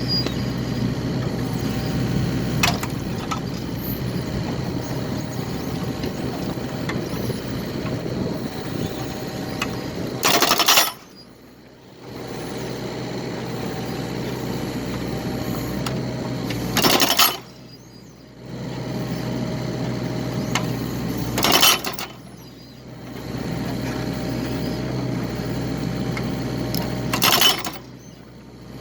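Excavator engine and hydraulics running steadily while splitting firewood, with four loud bursts of noise spaced several seconds apart, each followed by a second or so where the engine sound drops away.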